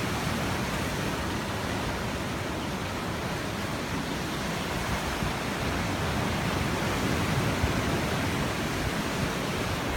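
Sea waves breaking and washing over shore rocks, a steady rushing noise.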